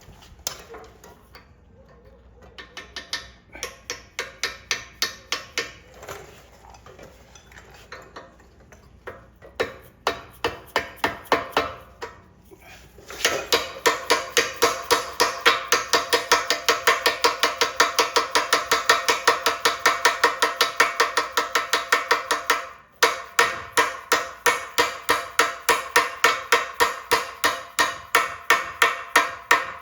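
Repeated hammer blows on steel driving a freezer-chilled bushing into the Bobcat T190's Bobtach pivot bore. The strikes ring, start lighter and uneven, then become louder and steady at about three a second about halfway through, with a brief break near the end.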